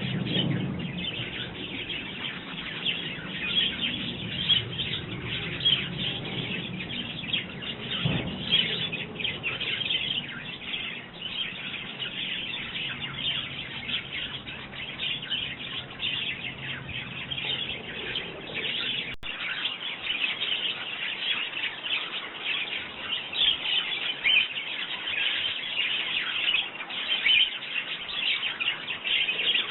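Sparrows chirping continuously at a garden feeder, many short calls overlapping in an unbroken chatter.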